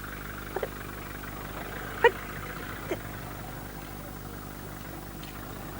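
Car engine idling steadily, with a few brief faint sounds about half a second, two seconds and three seconds in.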